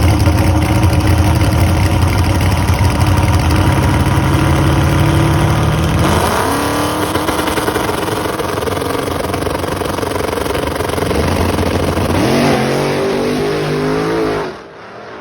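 Drag-racing engine at full throttle, its pitch climbing, then dropping and climbing again at two gear shifts about six and twelve seconds in, before the sound falls away sharply near the end.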